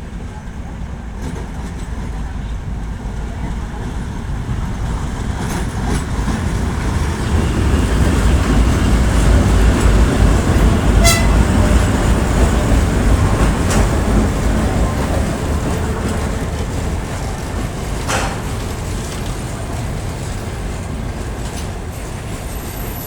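2M62U twin-section diesel locomotive running past close by as it arrives with a passenger train. Its two-stroke diesel engines give a deep rumble that builds to a peak about halfway through and then fades, with a few sharp clicks from the wheels and running gear.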